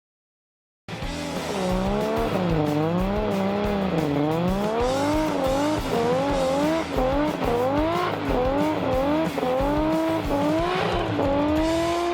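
A car's engine revving up and down over and over, its pitch rising and falling in quick swings, starting about a second in after near silence.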